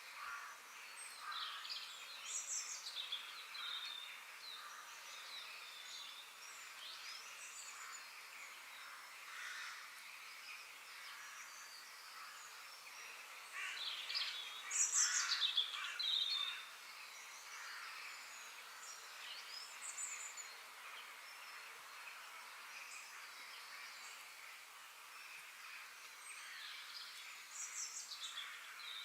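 Several birds singing and chirping, with short quick phrases coming and going over a steady outdoor hiss. The loudest run of calls comes about halfway through.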